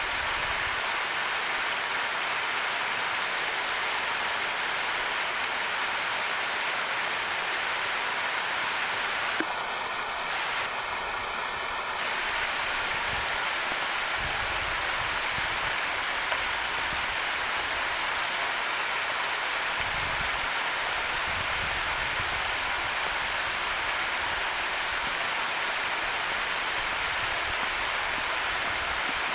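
Waterfall rushing: a steady, dense roar of falling water, briefly dulled in the highs about ten seconds in.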